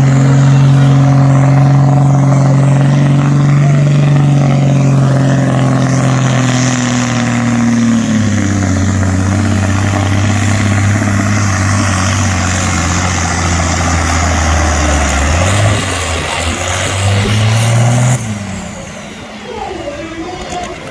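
Pulling tractor's engine running hard at full throttle while dragging the weighted sledge. Its note drops in pitch about eight seconds in as the load builds, wavers up briefly, then falls away sharply near the end.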